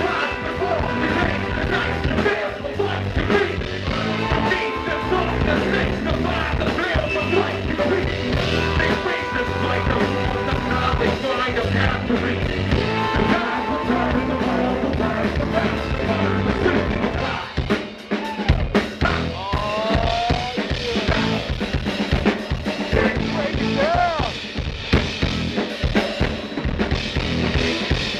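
Live hip-hop band playing an instrumental passage with no vocals, driven by a drum kit. About two-thirds of the way through, the music drops out briefly, then comes back in with sharp drum hits.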